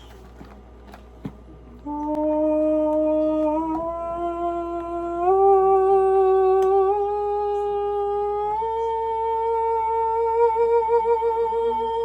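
A man humming one long held note that steps up in pitch three times, wavering in the last few seconds before it cuts off. It starts after about two seconds of quiet.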